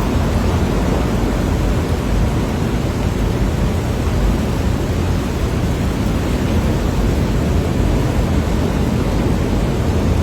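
Typhoon gale and driving rain: a steady, loud rush of noise with a deep, churning rumble underneath.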